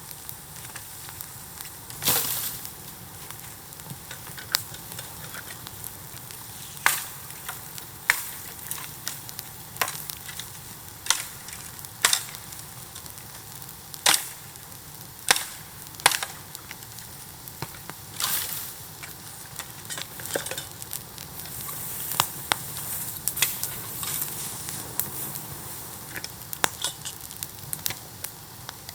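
Bamboo bonfire crackling: a steady hiss broken by sharp, irregular snaps and pops, a handful much louder than the rest.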